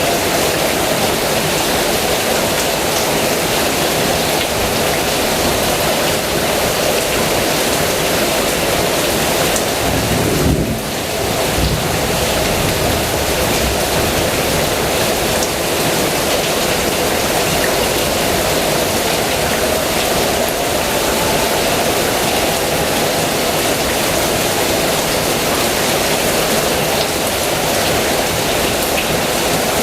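Heavy rain pouring steadily, with a low rumble of thunder about a third of the way through.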